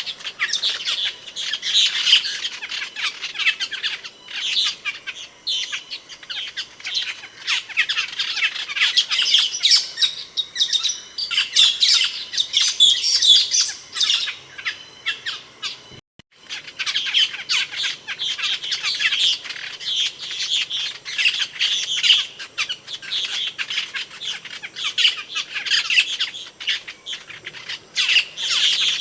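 Asian glossy starlings (cucak keling) calling in a dense, continuous run of short, sharp chirps and calls, with a brief silent break about sixteen seconds in.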